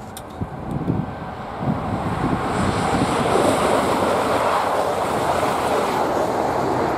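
Passenger train passing close by at speed: a loud rush of wheel and air noise builds from about two seconds in and stays at its peak as the coaches go by.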